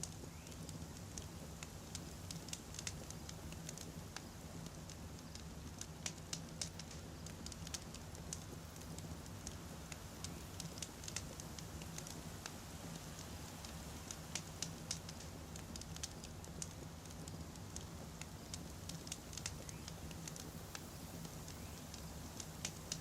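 Wood campfire crackling, with frequent small sharp pops scattered irregularly over a steady low rumble.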